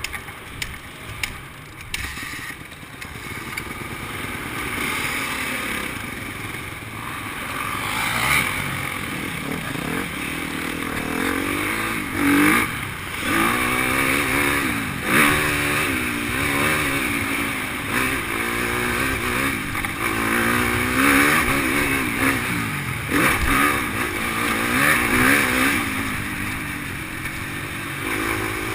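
Motocross bike engine revving up and down over and over as it rides around a track, its pitch rising and falling with each throttle change. It is fainter for the first few seconds and grows louder after that.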